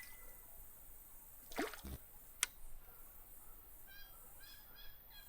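Outdoor creek sounds: a brief rushing, splash-like noise about one and a half seconds in, then a single sharp click. Near the end a bird calls, a quick series of short repeated chirps.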